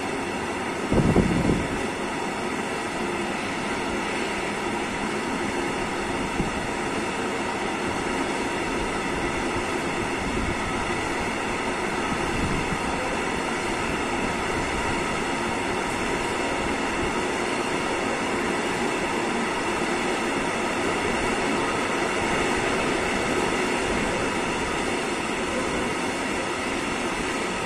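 Freight train of high-sided open coal wagons rolling past close by, with steady wheel-on-rail noise throughout. A brief low thump about a second in.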